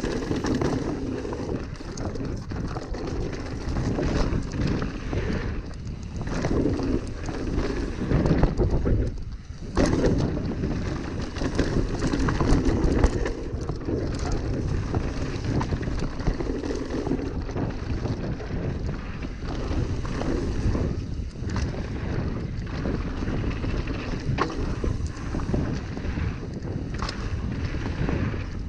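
Mountain bike riding down a dirt trail, heard through a GoPro: wind buffeting the microphone, tyre noise and a steady clatter of short knocks and rattles from the bike over rough ground. About nine and a half seconds in, the noise drops out for a moment before picking up again.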